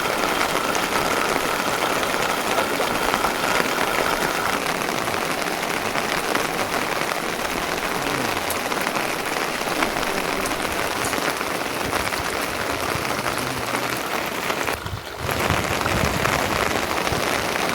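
Steady rain falling, an even hiss of drops, which briefly drops away about three quarters of the way through.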